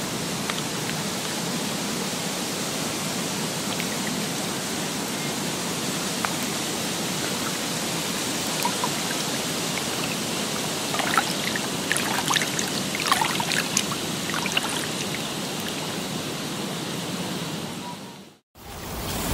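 Steady rushing water, with a cluster of small splashes and drips about two-thirds of the way in. It fades out near the end.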